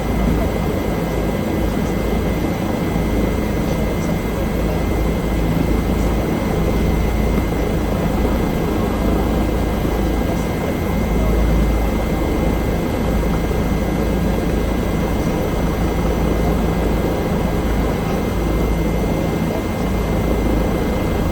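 Bell helicopter heard from inside the cabin, running steadily: a dense, even low rotor and engine rumble with a constant high tone over it.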